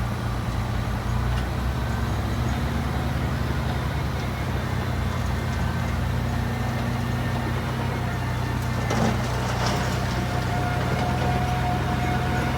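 Komatsu bulldozer's diesel engine running with a steady, low drone. There is a brief clatter about nine seconds in, and a thin steady whine joins from about ten seconds.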